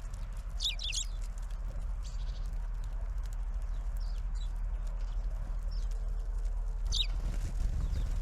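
Small songbirds at a feeder giving short, high chirps that fall in pitch, a quick cluster about a second in and another near the end, with a few fainter calls between, over a steady low background rumble.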